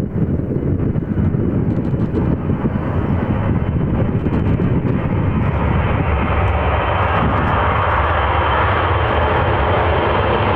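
Military aircraft engines, a steady loud rushing noise that grows fuller and louder from about halfway through as the aircraft comes closer.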